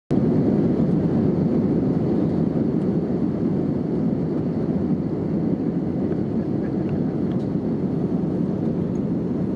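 Airbus A320neo in flight, heard from inside the cabin: a steady, even rush of engine and airflow noise.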